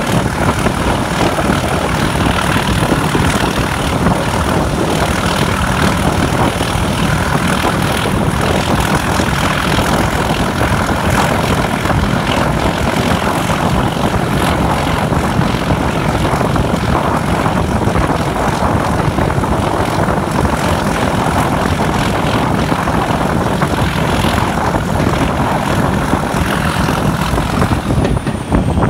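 Diesel-hauled heritage train running at speed, heard from an open carriage window: a loud, steady mix of engine drone and running noise.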